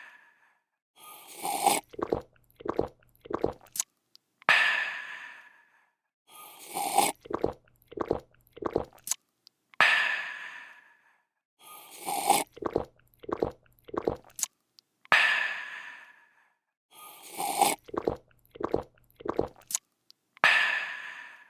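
Looped drinking sound effect: a slurp, three or four quick gulps, then a loud refreshed 'aah' that fades out. The cycle repeats about every five seconds, four times over.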